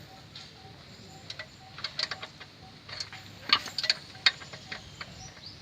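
Metal hand tools clinking and tapping against metal: a string of light, ringing metallic clicks, the loudest about three and a half to four and a half seconds in.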